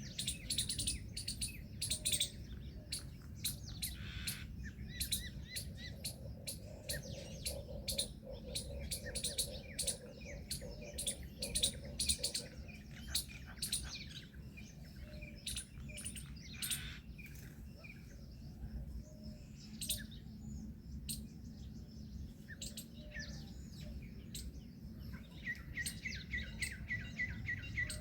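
Many birds chirping and calling at once: a dense stream of short, sharp chirps, with a quick run of repeated notes near the end. A steady low rumble underlies them.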